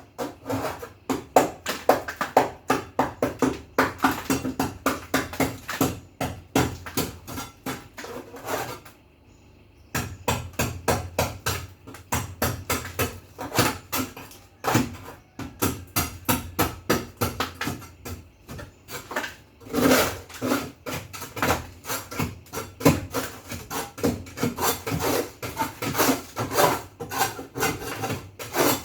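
Rapid, rhythmic scrubbing strokes by hand, about four a second, stopping for about a second around nine seconds in, then carrying on.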